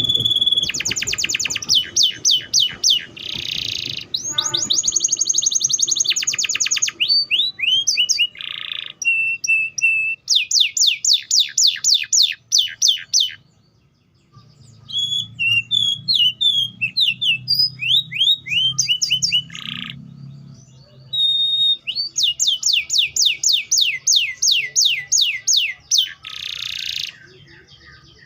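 Domestic canary singing a long song of rapid trills, fast runs of repeated down-slurred notes, broken by short held whistles and harsh buzzy notes. There is a brief gap about halfway through.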